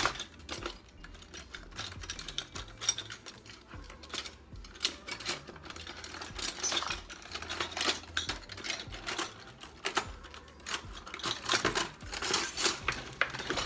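Irregular light clicks, taps and rattles of kitchen items being handled, thickest in two spells in the middle and near the end, over a faint low hum.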